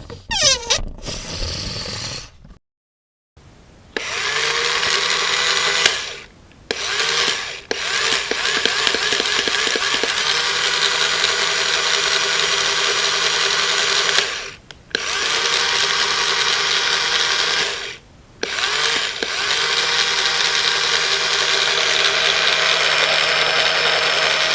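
A small electric motor, of a power tool or appliance, running in long stretches, cutting off briefly and starting again about four times.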